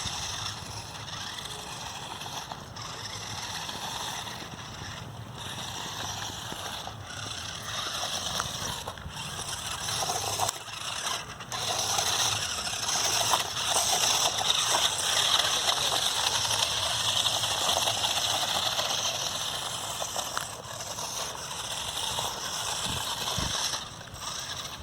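RC monster truck driving over dry forest leaves: a continuous crackling, rustling noise of leaves under its tyres, mixed with the running of its motor. It is louder through the middle stretch.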